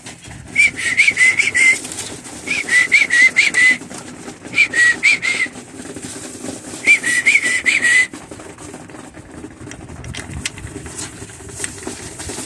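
Young pigeons (squeakers) peeping in quick, wavering high chirps, in short runs about a second long every couple of seconds, over a low steady rumble.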